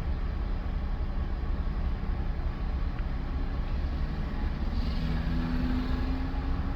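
Steady low rumble of a car heard from inside the cabin, with a faint low drone joining about four seconds in.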